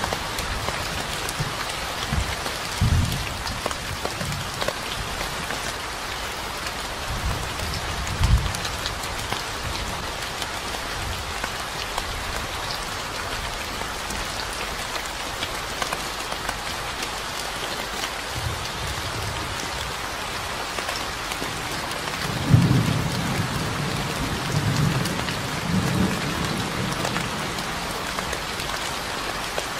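Steady rain falling, with low rumbles of thunder now and then, the longest about three-quarters of the way through.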